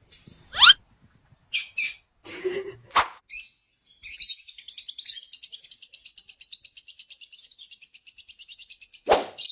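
Small parrots chirping: a few separate high calls and a rising whistle, then about five seconds of fast, unbroken high-pitched twittering. A sudden loud hit sounds just before the end.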